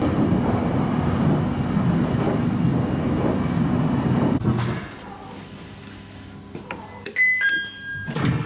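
Local commuter train running with a steady low rumble for about four and a half seconds, then going much quieter as it comes to a stop. Near the end a two-note door chime sounds, a higher tone then a lower one, and the push-button passenger door begins to slide open with a rush of noise.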